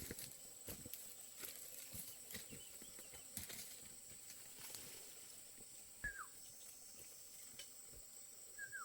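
Faint rural outdoor ambience with scattered light knocks and a steady high hiss, and two short falling chirps, one about six seconds in and one near the end.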